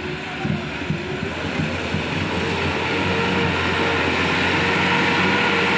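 Light truck's diesel engine labouring under load on a steep climb, its revs rising about two seconds in and then holding high as it grows louder. A few knocks and rattles sound during the first couple of seconds.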